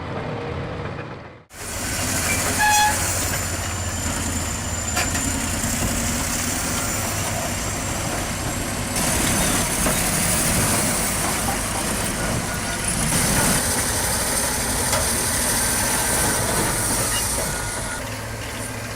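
Large bulldozer at work: its engine running under load amid a dense, steady rush of machine noise, with a brief break about a second and a half in.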